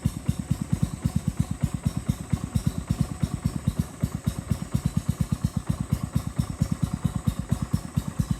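A boat's small engine running steadily, a rapid even thudding of about seven or eight beats a second.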